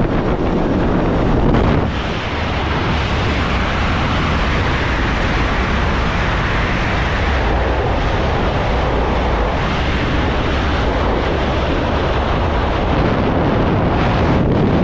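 Loud, steady wind rushing and buffeting over the microphone high in the air during a skydive. The rush changes slightly about two seconds in and then holds steady.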